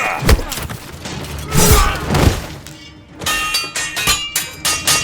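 Re-created sword-fight sound effects: a heavy thud just after the start, a rushing swell in the middle, then a quick run of ringing steel sword clashes in the second half, with music underneath.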